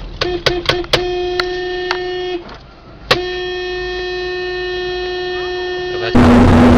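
Car horn honking: three quick short toots, then a long blast of about a second and a half, a short pause, and a longer blast of about three seconds. Near the end the sound cuts abruptly to loud engine and road noise.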